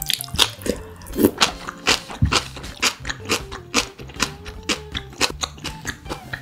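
Close-miked eating sounds: irregular crisp crunches and wet chewing, about three a second.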